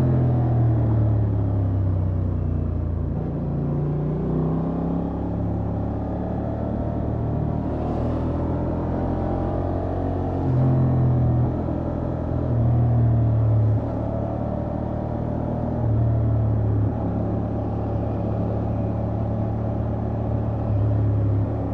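Honda XL750 Transalp's 755 cc parallel-twin engine on its stock exhaust, running through the gears at low road speed. It gets louder for about a second at a time as the throttle opens, four times in the second half.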